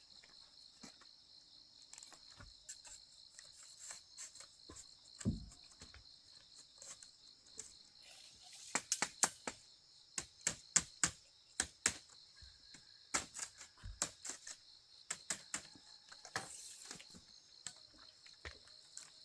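Insects, crickets by their sound, trilling steadily and high, with irregular sharp clicks and knocks over them that come thickest in runs from about the middle onward.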